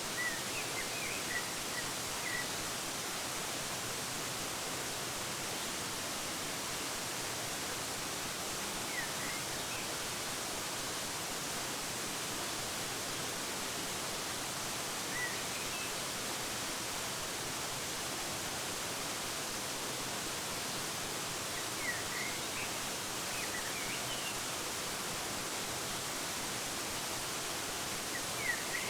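Waterfall making a steady, even rush of falling water, with small birds chirping briefly now and then over it: a few short chirps at the start, then scattered calls, a cluster about two-thirds of the way in and again at the end.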